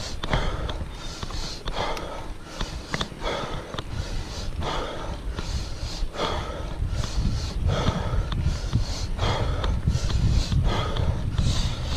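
A cyclist's hard, rhythmic breathing while climbing a steep hill, one forceful breath roughly every three-quarters of a second, over a low rumble of wind on the microphone.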